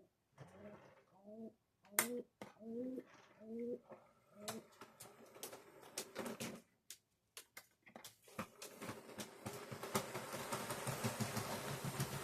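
Several short rising coo-like calls in the first few seconds, then sharp plastic clicks as model railroad cars are handled and coupled. About eight seconds in, a model locomotive starts running, its motor and wheels rumbling steadily on the track.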